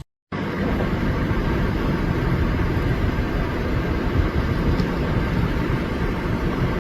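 Loud, steady rumbling noise, heaviest in the low range, that cuts in abruptly after a brief silence.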